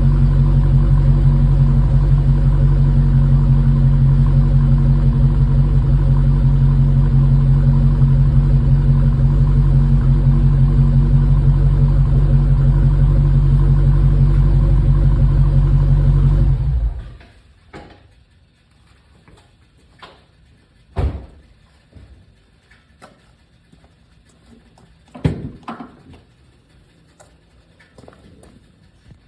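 2021 Dodge Challenger engine idling steadily, then switched off about 17 seconds in, its sound stopping abruptly. A few sharp knocks follow in the quiet afterwards.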